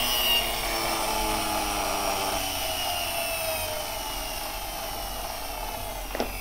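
Toy bus's friction flywheel motor whirring after being pushed, its whine slowly falling in pitch as it spins down. A few clicks near the end.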